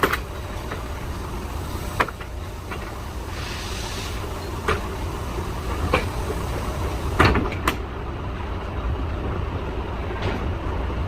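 Vehicle engine running steadily with a low drone, with several sharp knocks. The loudest knocks come about seven seconds in.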